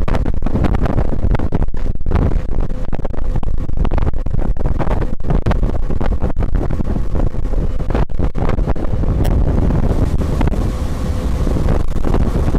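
Wind buffeting the microphone on an inflatable motorboat under way, with the steady drone of its Tohatsu 9.8 outboard motor underneath.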